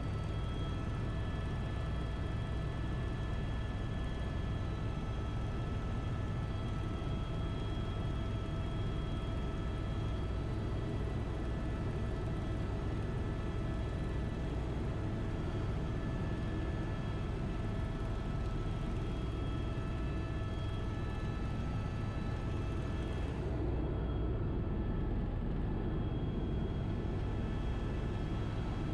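Helicopter in flight: a steady low drone of engine and rotor with several constant high whining tones over it, unchanging throughout.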